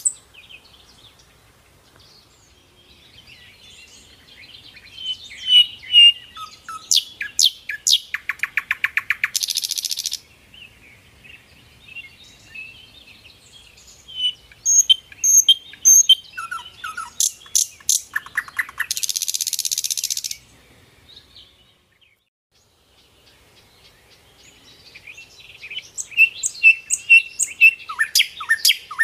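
Small songbirds chirping and twittering in bouts a few seconds long, each building to fast repeated notes and ending in a brief dry, buzzy rattle, with short quiet gaps between bouts.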